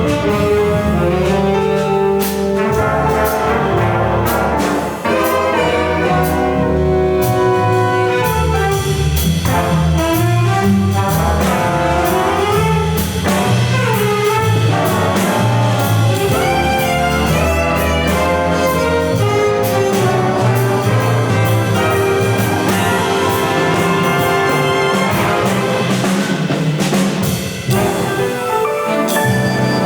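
School band music with brass to the fore, playing a lively piece with steady drum and cymbal hits.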